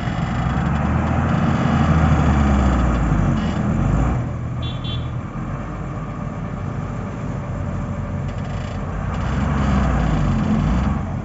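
JCB 3DX backhoe loader's diesel engine running and revving, its pitch rising and falling, louder about two seconds in and again near the end.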